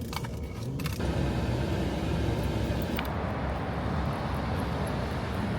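Steady road and engine noise inside a moving car. It grows louder and fuller about a second in.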